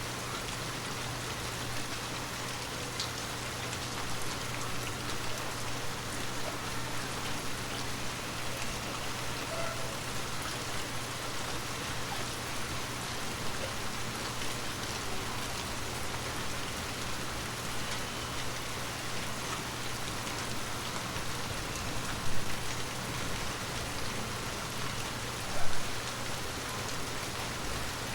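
Heavy rain falling steadily, an even hiss of many drops. Two brief louder hits stand out near the end.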